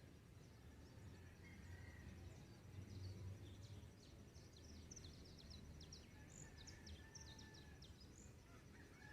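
Faint dawn birdsong: a bird gives a quick run of short, high chirps through the middle, with a few faint held notes, over a low steady rumble.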